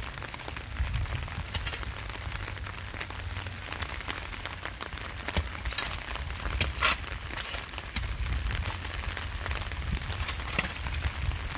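Steady rain falling on a surface, with scattered sharp taps, the loudest about seven seconds in, over a low rumble.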